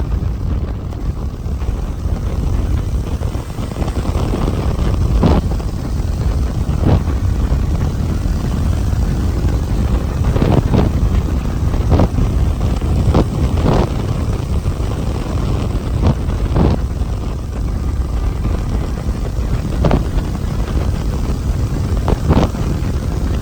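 Wind rush and road and engine noise from a motorcycle on the move, with short knocks every second or two.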